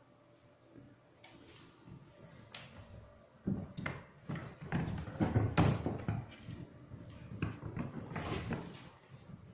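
Kittens scrambling about: irregular scuffs and light knocks, starting about three and a half seconds in.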